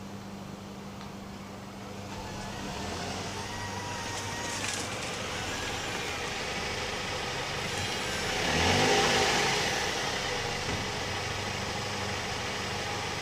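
2010 Mazda 3 2.5L four-cylinder on its stock exhaust: a steady low engine hum that builds from about two seconds in, rises in pitch to a loud peak about nine seconds in, then settles back to a steady hum.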